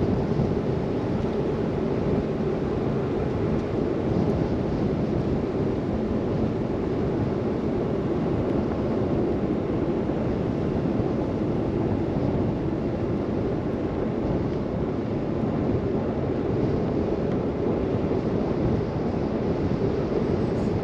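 Steady wind and driving noise from a car moving through a snow blizzard, with no distinct events.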